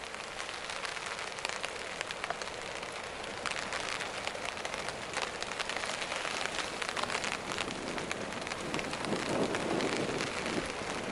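Steady rain pattering on the woodland around, a dense patter of drops on leaves and surfaces. A lower rushing sound swells about nine seconds in.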